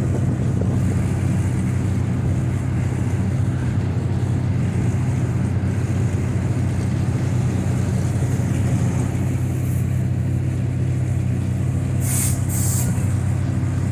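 An engine running steadily at idle with a constant low drone, and two short hisses near the end.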